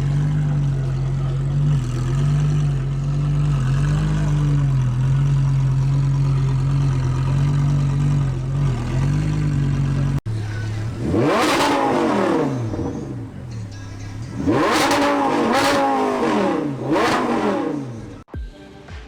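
A car engine holding a steady note with small wavers in pitch, then, after a cut, three loud revs whose pitch climbs and falls back, from sports car exhausts at a car meet.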